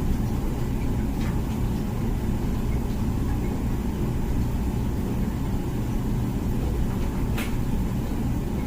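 Comfee dishwasher running its wash cycle: a steady low hum and rumble, with one sharp click about seven seconds in.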